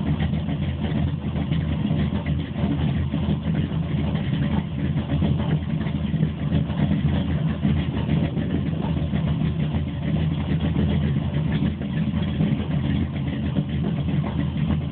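GM ZZ502 big-block Chevy V8 crate engine with Powerjection III throttle-body fuel injection, running at a steady idle.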